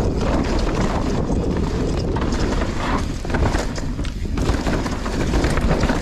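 Mountain bike running fast down a loose dirt downhill trail: tyres rolling and skidding over the dirt and the bike rattling over bumps, with a constant rumble of wind on the action camera's microphone.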